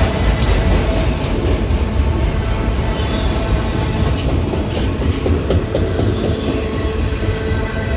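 A train rolling past: a steady, loud rumble of cars on the rails, with wheels clicking over the rail joints.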